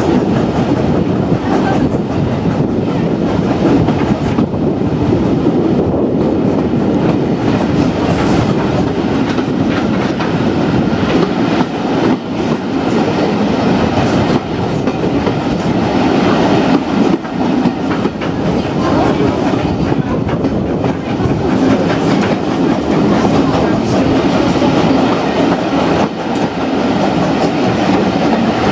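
Railway passenger carriage running along the line: a steady rumble with the clickety-clack of wheels passing over rail joints.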